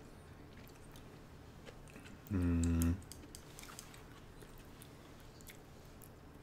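Quiet chewing of sushi with faint small clicks of mouth and chopsticks. About two and a half seconds in comes a short, steady hummed "mmm" of a voice, the loudest sound here.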